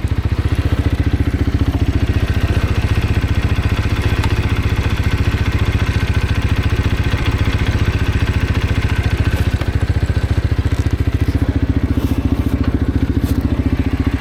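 Road motorcycle engine running steadily, with even firing pulses and no revving.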